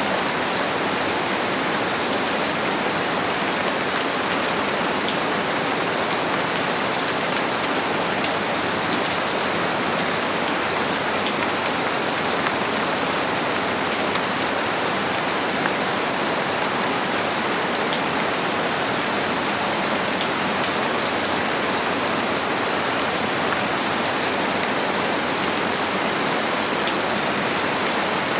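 Steady rain falling and pattering on surfaces, with many fine drop ticks in a constant even hiss; no thunder.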